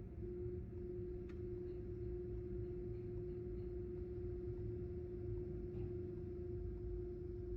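Diesel fuel pump running steadily as it dispenses fuel into a truck's tank: a constant hum with one steady tone over a low rumble.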